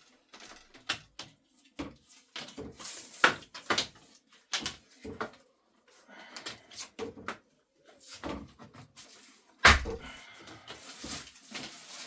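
Irregular plastic clicks and knocks as UPVC glazing beads are prised out of a window frame, with one sharp, louder knock near the end.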